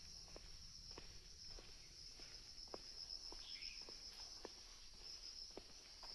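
A faint, steady high-pitched insect drone, with soft footsteps on a trail about two a second.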